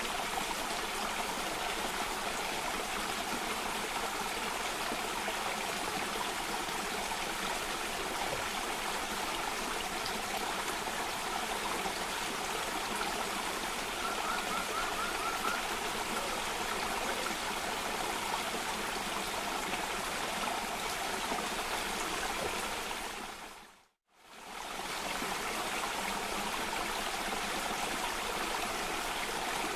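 Steady rushing of water over a cascade, an even hiss and splash with no change in intensity. Near the end the sound fades out for a moment and fades straight back in.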